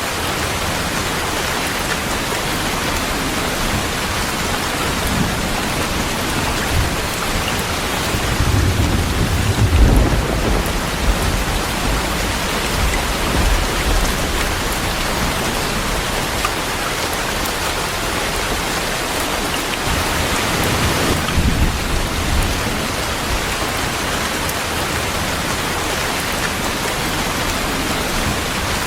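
Heavy rain falling steadily, with thunder rumbling twice: a long rumble building about eight seconds in and peaking around ten seconds, and a shorter one around twenty-one seconds.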